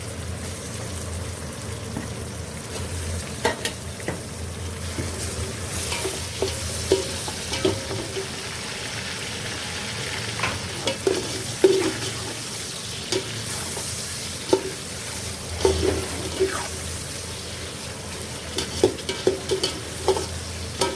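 Chicken leg pieces frying in hot oil with onions in a pot, a steady sizzle. Many short knocks and scrapes of a spoon against the pot as the pieces are stirred, more frequent near the end.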